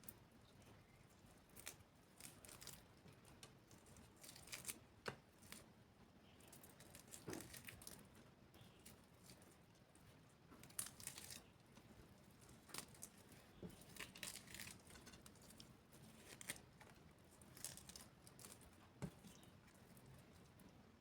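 Faint eating sounds: short, crisp crackles and tearing noises at irregular intervals as food is torn and chewed.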